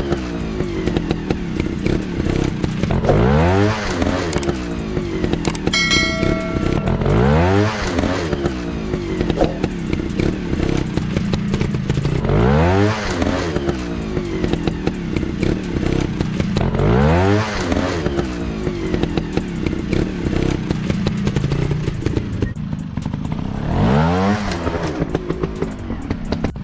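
Trail motorcycle engines running under load, revving up sharply again and again, roughly every four to five seconds, with continuous engine and clatter noise in between. A brief high ringing tone sounds about six seconds in.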